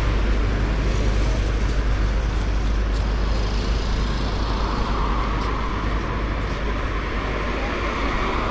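Road traffic: a steady low rumble of motor vehicles, with a vehicle noise that grows louder from about halfway through.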